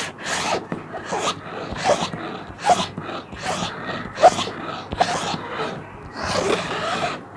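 A plastic sheet being scratched in repeated rough strokes, about one a second.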